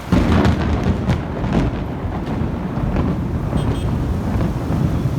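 Loud thunderclap that breaks in suddenly, crackling over the first couple of seconds, then a long low rumble. It comes from a close lightning strike, the one taken to have knocked out the power.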